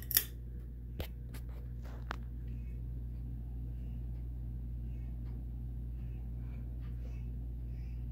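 Ceiling fans running with a steady low hum, the Regency's cast-iron spinner motor just switched onto low speed. A sharp pull-chain switch click comes at the very start, followed by a few faint ticks in the first two seconds.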